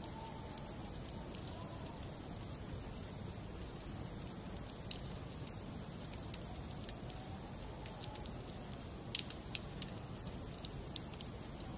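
Wood fire burning in a fireplace: a steady low rush with irregular sharp crackles and pops of the burning logs, the loudest about nine seconds in.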